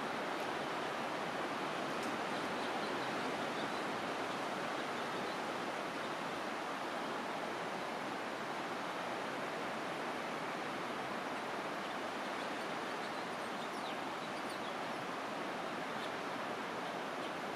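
Steady rushing of flowing water at an even level.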